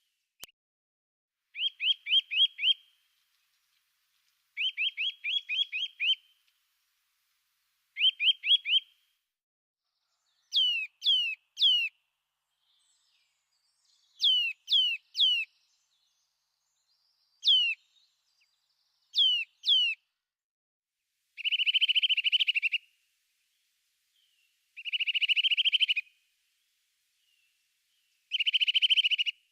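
A songbird singing about ten short phrases, roughly one every three seconds. It starts with quick runs of notes, moves to clear falling whistles in twos and threes, and ends with three buzzy trills.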